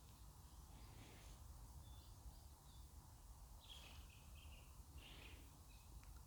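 Faint, distant birds calling: short high chirps scattered through, clustered about four and five seconds in, over a low steady rumble.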